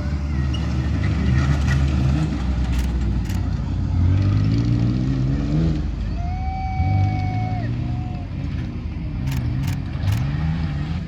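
Tough-truck engine revving hard and easing off again and again as it drives an obstacle course, climbing steeply about four to six seconds in. A few sharp knocks are heard along the way.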